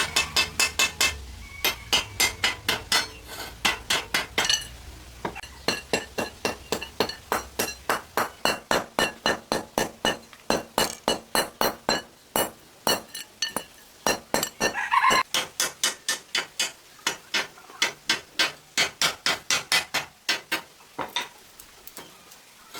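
Rapid repeated sharp metallic taps, about three to four a second, in runs broken by short pauses. A low steady hum sits under them for the first third.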